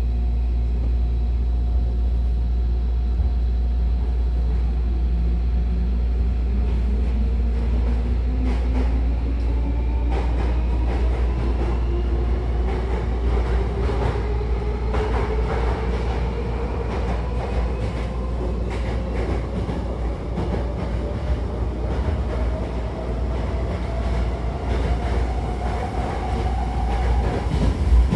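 Interior of a Hankyu electric commuter train pulling away: the traction motors' whine rises steadily in pitch as the train accelerates, over a constant low rumble, with wheels clicking over rail joints as speed builds.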